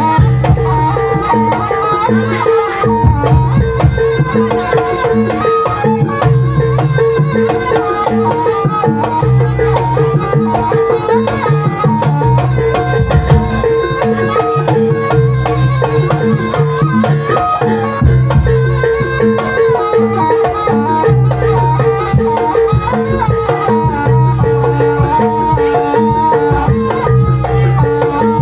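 Traditional folk music: hand drums beating a repeating pattern under a steady held note and a running melody, played continuously and loud.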